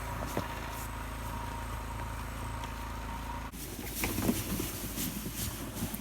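An engine running steadily with a thin high whine, cut off abruptly about three and a half seconds in. Scattered knocks and crunches follow.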